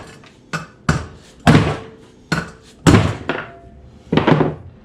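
A hammer striking valve spring retainers on a cylinder head: about six sharp metallic knocks at uneven intervals, some ringing briefly, knocking the valve keepers loose so the springs come off.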